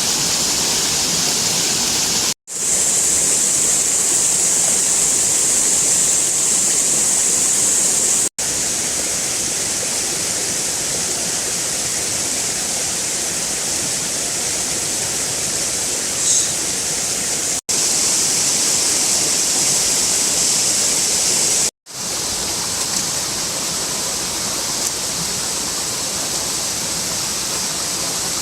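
A steady rushing hiss, strongest high up, cut off sharply four times.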